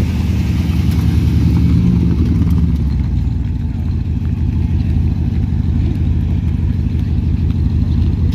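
A vehicle engine running steadily at low revs, a deep, even rumble.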